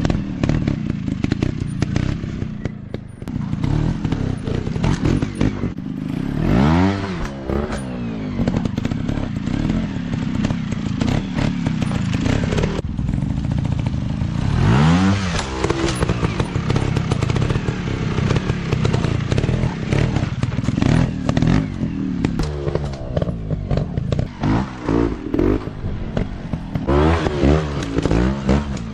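Small dirt bike engine running and being revved, its pitch rising and falling several times, with rough clattery noise between the revs.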